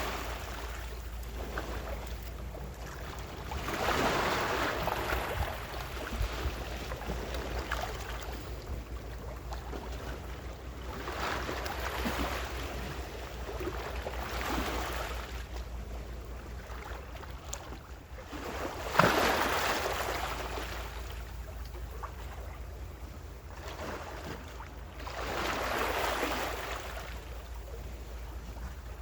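Ocean waves breaking and washing up the shore, about five swells that rise and fade. The loudest comes in sharply about two-thirds of the way through. A steady low rumble runs beneath them.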